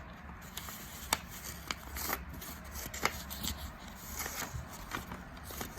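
A sheet of paper being handled, folded and creased, with scattered crackles and rustles.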